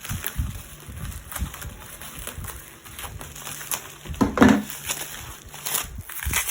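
Packaging being handled and opened by hand: irregular rustling, crinkling and small taps and scrapes, with a louder crackle about four seconds in.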